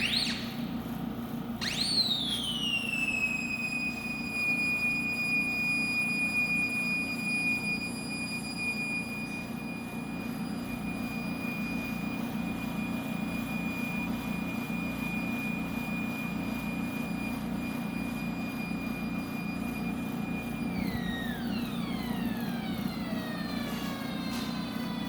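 Alcatel ASM 180TD helium leak detector's audible leak-signal tone: a high whistle that jumps in about two seconds in, slides down and holds a steady pitch, then glides down in pitch about 21 seconds in as the detected helium signal falls. A steady low hum from the running pumps sits underneath.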